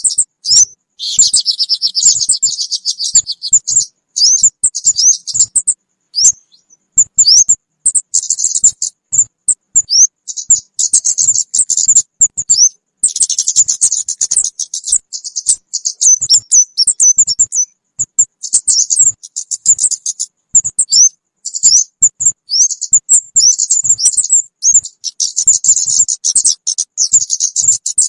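Recorded lure call of the kemade bird: high-pitched chirping in bouts of rapid buzzy trills alternating with short, quickly rising whistled notes. There are brief pauses between bouts.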